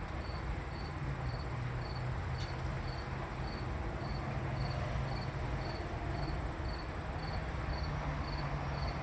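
A cricket chirping steadily, about two short chirps a second, over a low steady hum and hiss.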